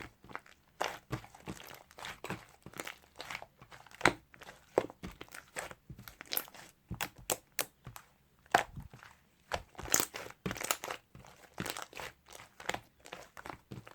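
Slime topped with a layer of clay being squished and pressed by hand, giving irregular crackling pops and clicks.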